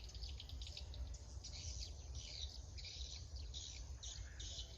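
Faint high chirps and trills from birds and insects, irregular and overlapping, over a steady low rumble.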